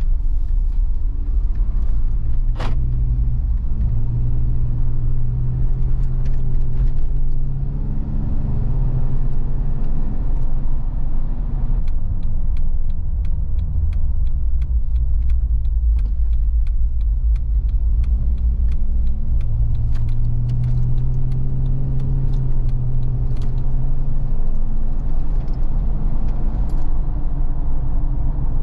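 2018 Jeep Wrangler Sahara's 3.6-litre V6 running under way, heard from inside the cabin over steady road rumble. The engine note climbs as it accelerates and drops back at the gear changes, in two rounds. There is a single sharp click a couple of seconds in.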